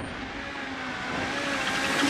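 Rally car engine running on a stage, with tyre and road noise, getting louder over the last second.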